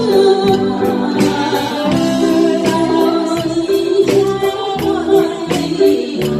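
A singer performing a Taiwanese enka-style song over backing music with a steady beat.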